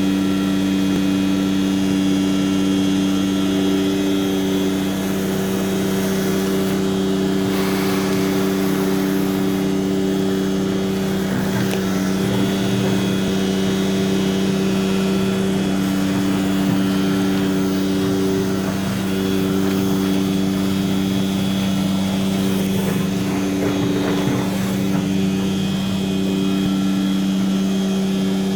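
Tanker truck's engine and unloading pump running steadily, a constant low hum with no change in speed.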